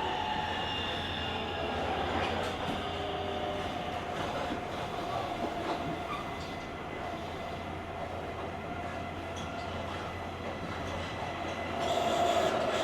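JR Kyushu 883-series electric limited express running, heard from the deck of a motor car: wheel-on-rail running noise with a steady whine over it. It grows louder for a moment near the end.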